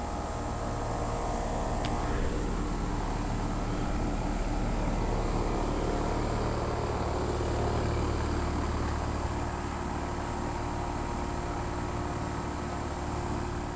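Central air-conditioner condensing units running outdoors under load: a steady compressor hum with the fans' whooshing, with a brief click about two seconds in.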